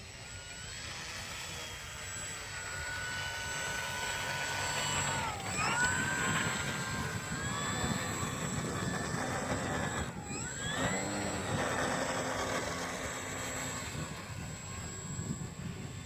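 Electric motor and propeller of a radio-controlled model airplane whining, its pitch rising and falling with the throttle. The pitch drops sharply and climbs back twice.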